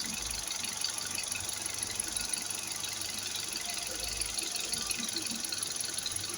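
Petrol Hyundai i20 engine idling steadily.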